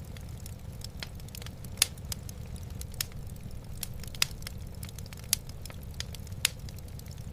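Wood fire in a fireplace crackling, with irregular sharp pops about once a second, over a steady low rumble.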